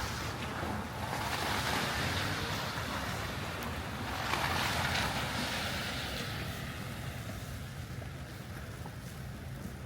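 Traffic on a slushy, snow-covered city street: tyre hiss swells up twice as vehicles pass, over a steady low hum of the city.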